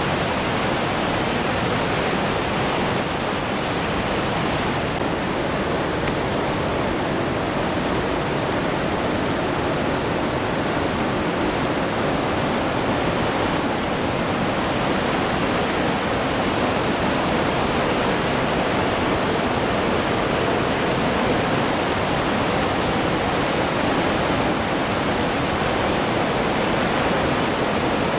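Goðafoss waterfall's steady rush of falling water. The highest part of the hiss thins out about five seconds in.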